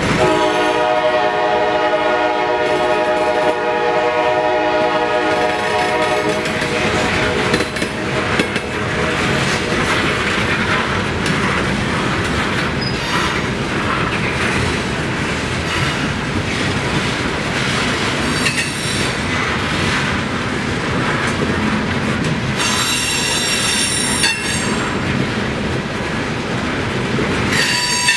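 Norfolk Southern freight train's hopper cars rolling past on a curve, wheels clacking over the rail joints with a steady rumble. A train horn sounds for roughly the first seven seconds, and high-pitched wheel flange squeal rises twice in the last few seconds.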